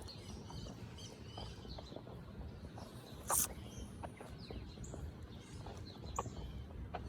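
Birds chirping over a low, steady rumble, with scattered sharp clicks; the loudest click comes about three seconds in.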